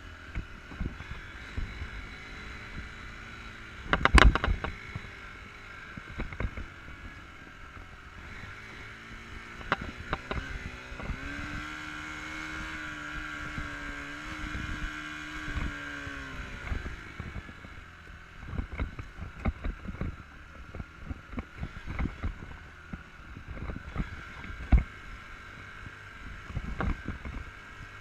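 Enduro motorcycle engine running with many sharp knocks and thumps, the loudest about four seconds in and another near twenty-five seconds. Around ten seconds in the engine revs up, holds a steady pitch for about five seconds, then drops back.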